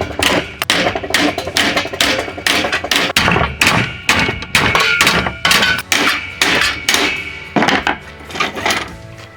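Hammer blows on leaf-spring steel being forged, struck steadily about three times a second, each blow with a short metallic ring. The blows weaken and stop near the end.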